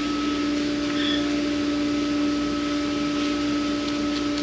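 A steady machine hum with a constant hiss underneath, holding an even pitch and level throughout, from running background equipment.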